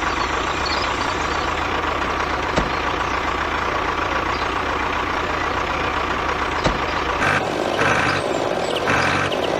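Tractor engine running steadily, with a couple of sharp clicks. Near the end the sound changes and two short, higher-pitched bursts come through.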